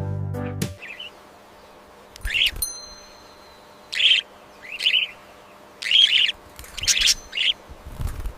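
Budgerigar chirping: short bursts of quick, warbling chirps, about one burst a second, after a piece of music cuts off under a second in.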